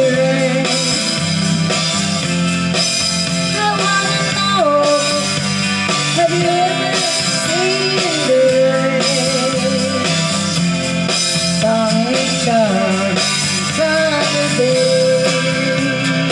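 Rock band playing an instrumental passage with no lyrics: drums keep a steady beat under guitar chords, with a lead melody line wavering above them.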